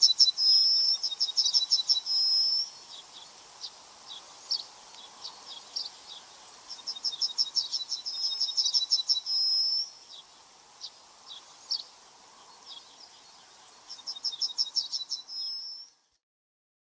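A songbird singing the same high song three times, each a fast trill of notes ending in a held whistle, with single high chips in between. The sound cuts off abruptly near the end.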